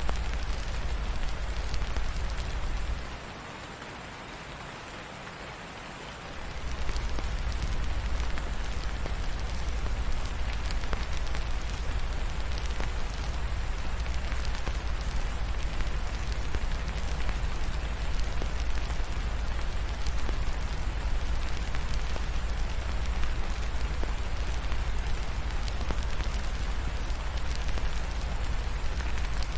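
Ambience-track rain falling steadily, with faint fireplace crackles. A deep low rumble runs underneath and drops out for about three seconds a few seconds in.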